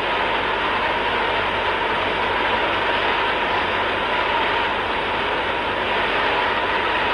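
Large congregation praying aloud all at once: a steady, dense roar of many voices with no single voice standing out.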